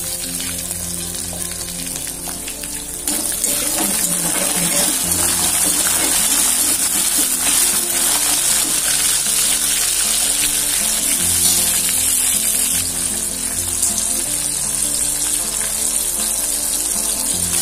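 Shallots and garlic frying in hot sesame oil in an aluminium kadai: a steady sizzle that grows louder about three seconds in. Background music plays along with it.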